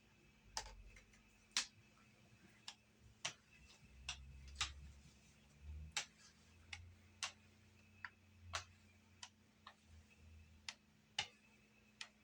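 Faint, irregular knocks and clicks of a rolling pin on a wooden dough board, with a low rumble as dumpling dough is rolled out.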